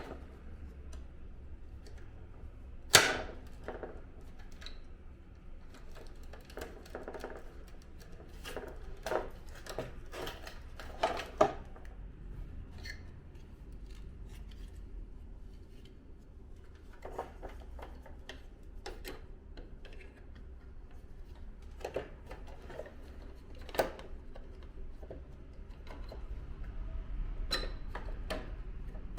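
Scattered clicks, taps and knocks of an air conditioner indoor unit's parts being handled and fitted together during reassembly, with a sharp knock about three seconds in as the loudest.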